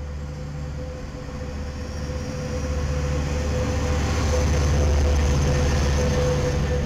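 Passenger train rolling past at close range. The deep rumble grows louder and is loudest about two-thirds of the way through, as the diesel locomotive goes by, over a steady hum.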